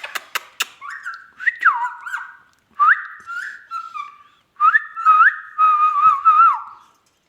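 Indian ringneck parakeet whistling: three phrases of sliding whistled notes that rise and fall, after a few sharp clicks at the start.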